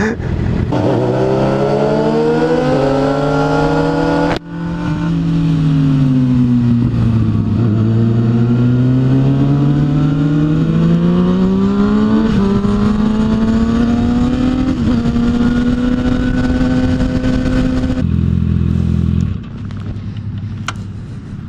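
Sport motorcycle's inline-four engine under way, its pitch falling and rising smoothly as the rider slows and speeds up, with a short break at about four seconds like a gear change. Near the end it settles to a steady low idle and grows quieter.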